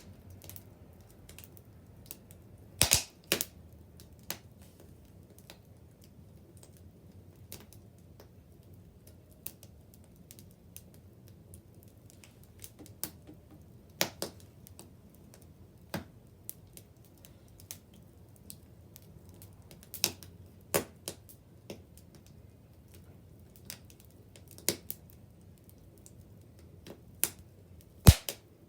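Wood bonfire crackling: scattered sharp snaps and pops at uneven intervals over a low, steady rush of flame, with the loudest snaps about three seconds in and near the end.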